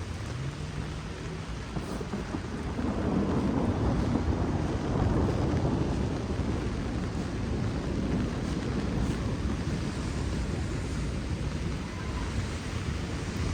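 Heavy rain pouring steadily, with a low rushing rumble that swells about three seconds in and eases off after about six seconds.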